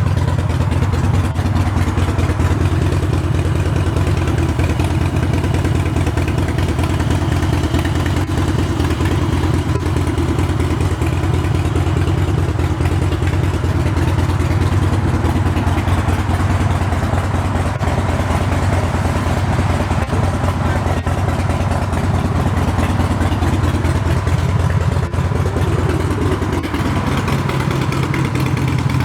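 2016 Harley-Davidson Street Glide Special's Twin Cam 103 V-twin idling steadily through custom aftermarket exhausts, with a deep, even pulsing.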